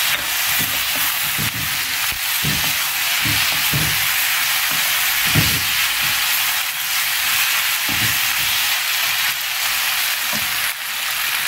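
Sliced onions, tomato and green chillies sizzling steadily in hot oil in a karahi. A wooden spoon stirring them scrapes and knocks against the pan at irregular intervals, about once a second.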